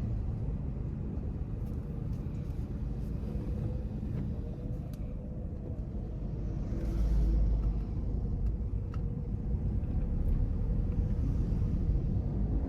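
Car on the move: a steady low rumble of engine and road noise, with a faint steady hum and a few light clicks, swelling louder for about a second around seven seconds in.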